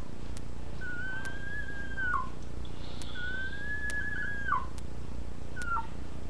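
Puppy whining: two long, high, thin whines of about a second and a half each, the pitch held and then dropping at the end, and a short whine near the end.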